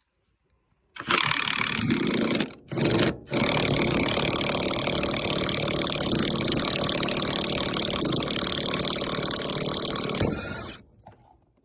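Handheld power tool run in trigger pulls on a bolt of a Mercedes R129 strut bracket: two short runs, then one long steady run of about seven seconds that stops suddenly.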